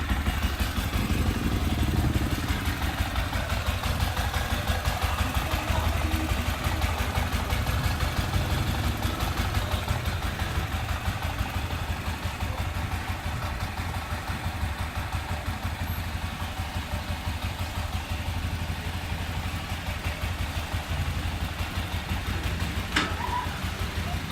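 Motorcycle engine idling steadily, with a single short click near the end.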